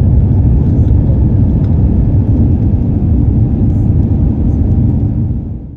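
Steady low rumble of cabin noise inside an Airbus A350-900 on departure: its Rolls-Royce Trent XWB engines and the rushing air heard through the fuselage. The sound fades out quickly near the end.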